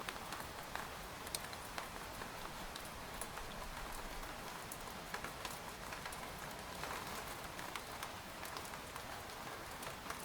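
Steady rain pattering on a tent's fabric, a soft even hiss broken by frequent sharp ticks of individual drops hitting the tent.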